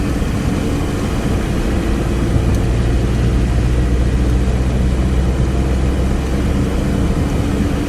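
Vehicle engine and road noise from a vehicle on the move: a steady low engine hum under a rushing tyre and wind noise, with a second hum tone strengthening between about two and six seconds in.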